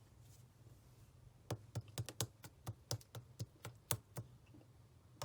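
Slime being squeezed and poked by hand, giving a quick run of about fourteen sharp sticky clicks and pops that starts about a second and a half in and stops a little after four seconds.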